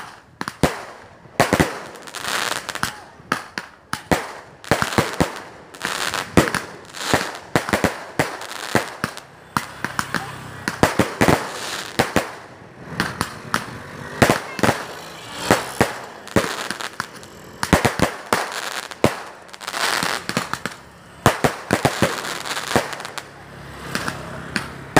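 Aerial fireworks exploding overhead: a dense, irregular string of sharp bangs, several a second, going on without a break.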